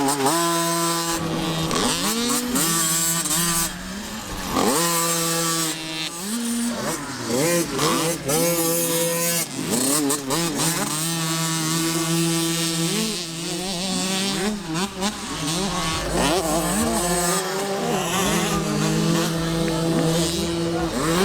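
50cc two-stroke motocross bike engine at high revs, its pitch sweeping up again and again as it accelerates and shifts, then holding steady between sweeps.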